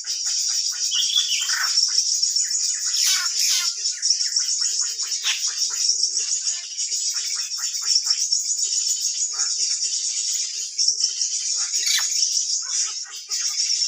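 Many short rapid bird chirps and falling call notes over a steady high-pitched insect-like drone.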